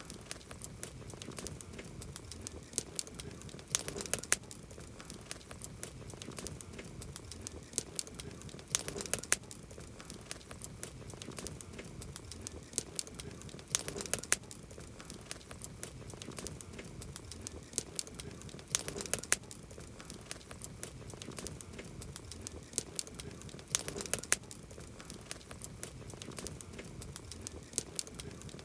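Wood campfire crackling, a steady run of small snaps and ticks with a cluster of louder pops about every five seconds.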